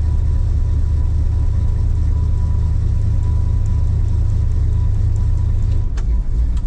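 Chevrolet K5 Blazer's carbureted engine running with a steady low rumble as the truck is driven up under power. Near the end the rumble changes and there is a sharp click.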